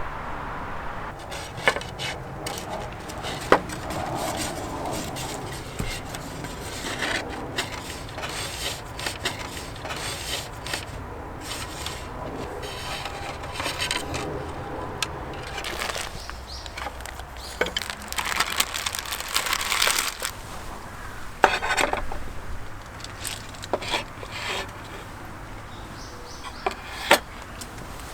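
Wood being handled for a campfire: scattered sharp knocks and snaps, with bursts of scraping.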